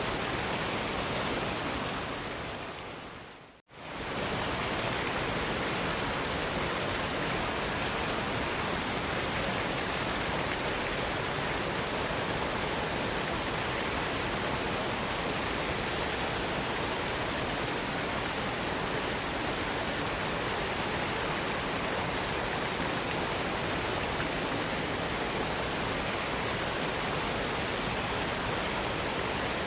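Steady rushing of a waterfall, an even wash of falling water. About three and a half seconds in it fades away to silence and swells straight back, as at a join between two recordings.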